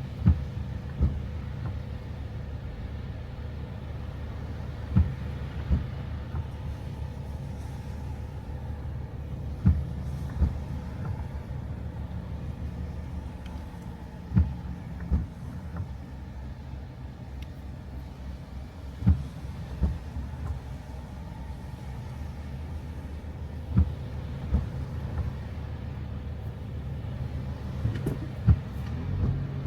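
Steady low road rumble of a car being driven. Every four to five seconds comes a pair of short knocks, about 0.7 s apart.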